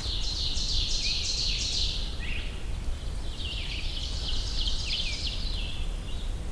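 Woodland songbird song: two runs of quickly repeated, high, downward-slurred notes, the first lasting about two seconds and the second starting about a second later and lasting a little longer.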